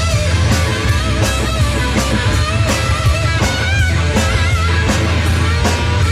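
Live rock band playing an instrumental passage: electric guitar with bent, wavering notes over bass guitar and a steady drum beat.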